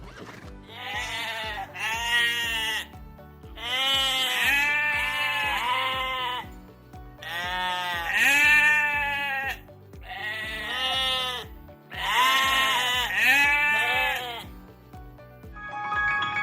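Sheep bleating: a series of wavering bleats, mostly in pairs, over background music with a steady beat.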